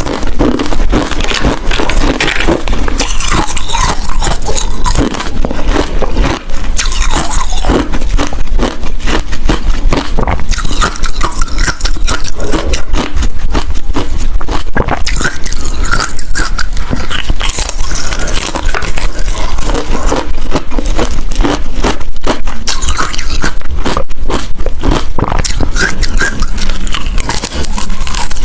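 Close-miked crunching of ice being bitten and chewed, a dense run of crackling cracks with no pause.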